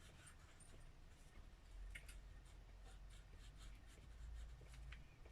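Faint scratching of a pen drawing lines on paper.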